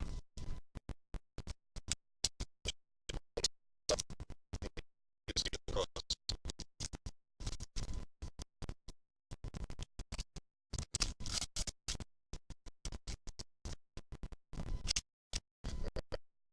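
Choppy, broken-up audio from a faulty stream recording, cutting in and out several times a second. The short fragments sound like scratching or rustling, possibly with music underneath.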